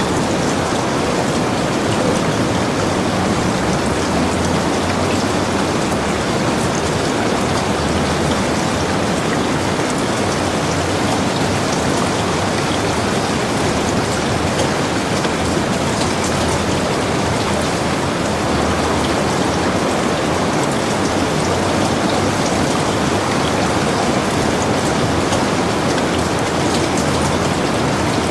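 Heavy rain falling steadily, a dense even hiss with many small drop ticks striking surfaces.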